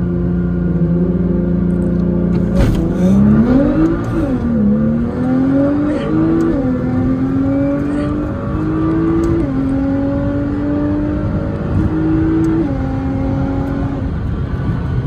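Nissan GT-R's twin-turbo V6 held at steady launch revs, then launching hard about two and a half seconds in and pulling through the gears, its note climbing in each gear and dropping sharply at several quick upshifts, heard from inside the cabin.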